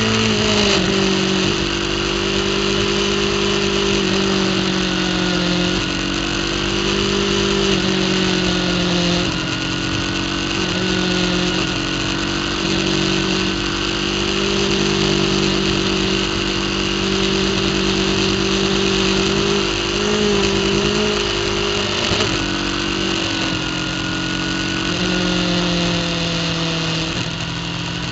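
Racing superbike's engine running hard, heard from a camera mounted on the bike. Its pitch climbs and drops back several times as the rider shifts gears and rolls off and back on the throttle through the corners.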